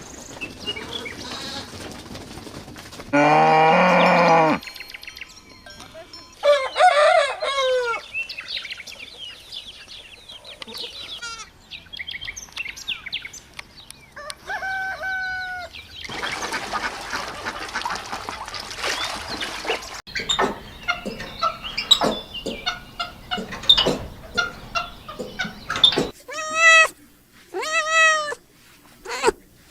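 A string of farm bird calls, chickens clucking with a rooster crowing. In the last few seconds a cat meows several times in a row.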